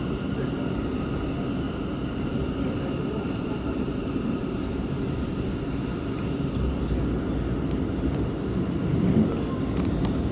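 Interior of an R179 subway car running along the track: a steady rumble of wheels and car body, with a faint steady whine above it. A brief hiss sounds a few seconds in.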